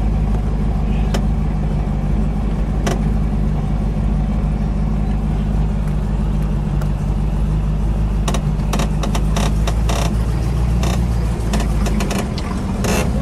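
1970 Plymouth Superbird's 440 V8 running steadily at low speed, heard from inside the cabin as the car rolls along. A quick run of sharp clicks and rattles comes through about two thirds of the way in.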